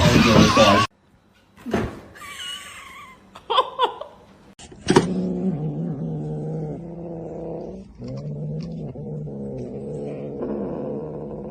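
A domestic cat yowling: a few short rising and falling cries, then two long, low, drawn-out yowls. The second yowl cuts off abruptly at the end.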